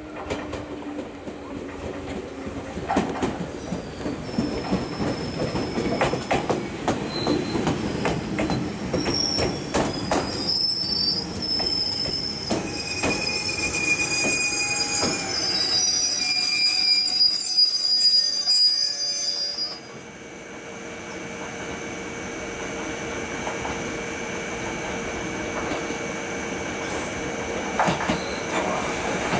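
JR 211 series electric train pulling into the station, its wheels clattering and then its brakes squealing with high, wavering tones as it slows. About twenty seconds in the squeal cuts off as the train comes to a stop, leaving a steady hum from the standing train.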